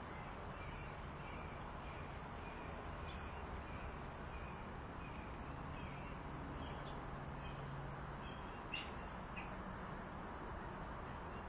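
A bird calling over and over in a quick series of short, evenly spaced notes, over steady outdoor background noise, with a few faint clicks.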